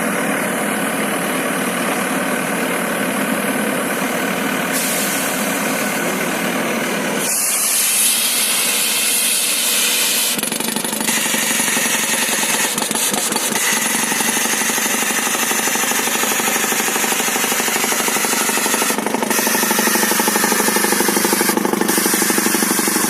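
Pile driver's Weichai diesel engine and hydraulic system running loudly and steadily, the sound changing character about 7 seconds in and again near 10 seconds, then growing louder with a fast pulsing near the end.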